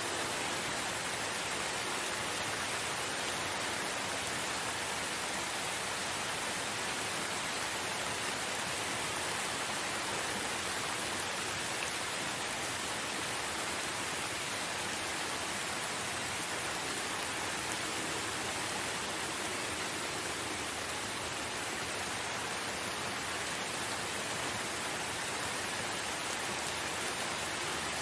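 Steady rain falling, an even hiss of many drops with no distinct individual drips or thunder.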